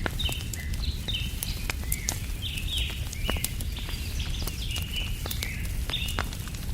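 Wood campfire crackling, with frequent sharp irregular pops over a steady low rumble. Birds chirp throughout in repeated short calls.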